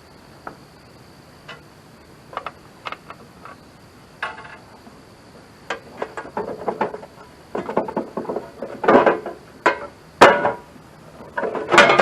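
Scattered clicks, clinks and knocks of a cover being taken off and tools and metal parts being handled. The knocks are sparse at first and come thicker and louder in the second half, ending in a louder metallic clank that rings briefly.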